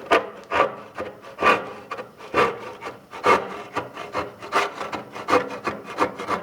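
Hand saw cutting through a wooden rafter in repeated rasping back-and-forth strokes, about one to two a second, finishing the inside corner of a bird's mouth notch that the circular saw could not cut fully.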